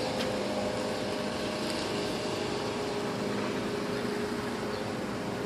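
Heavy rain falling outside, a steady even hiss, with a faint steady hum running under it.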